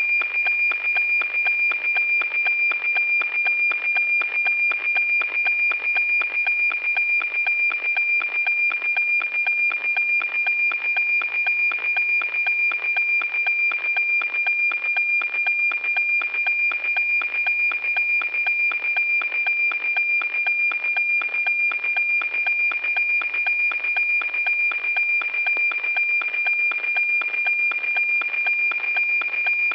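NOAA-18 weather satellite APT signal received by radio: a steady, high 2400 Hz tone pulsing in an even tick-tock rhythm as image lines are sent.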